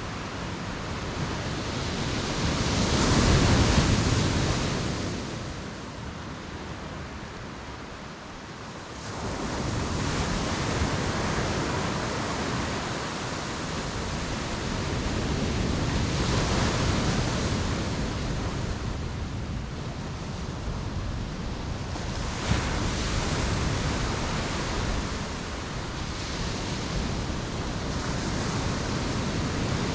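Ocean surf washing onto a beach, rising and falling in slow surges as waves break, with the biggest wave breaking about three seconds in.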